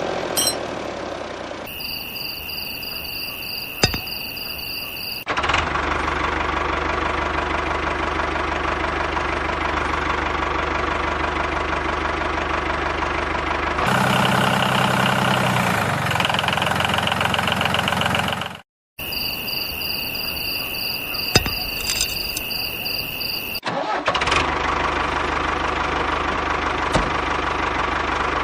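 Engine sound in several abruptly cut segments: a steady running engine with a low hum, twice broken by a short stretch with a high steady whine.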